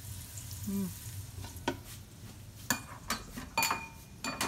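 Chopped onions sizzling in butter and bacon grease in an Instant Pot's stainless steel inner pot on sauté, stirred with a spatula. From about the middle on come several sharp clicks and clinks, a few ringing briefly.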